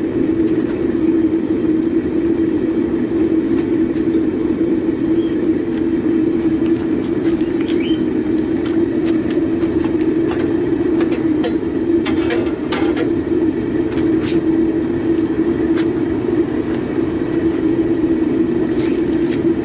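Homemade propane foundry furnace burner running steadily with an even low hum while it melts aluminum cans. A few light clicks and taps are heard on top of it.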